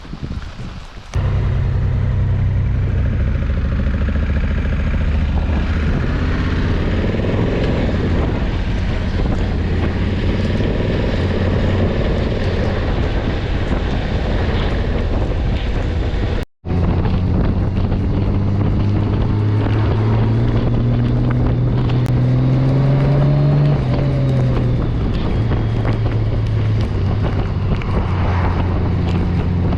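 Honda touring motorcycle engine running under way, with wind noise on the microphone. Around two-thirds through, the engine note climbs steadily for a few seconds as the bike accelerates, then drops back; there is a short break in the sound halfway through.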